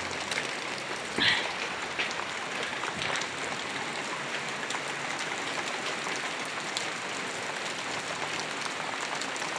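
Steady rain falling: an even hiss of many drops with scattered small ticks. A brief higher-pitched sound cuts in about a second in.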